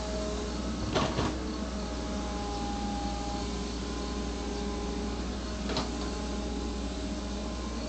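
Backhoe running with a steady low drone and faint whining tones, with a sharp clank about a second in and a lighter one near six seconds.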